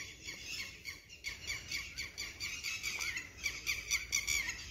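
Small birds chirping: a rapid run of short, high chirps that grows louder and busier after about a second.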